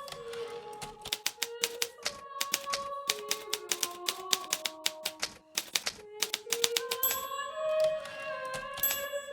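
Hermes Baby portable manual typewriter being typed on: rapid key strikes in quick runs, with a brief pause about five seconds in. Soft background music with long held notes plays underneath.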